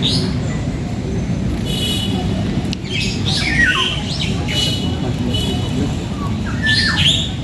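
Several caged birds calling: squawks, chirps and short falling calls, some held as brief whistles, over a steady low background rumble.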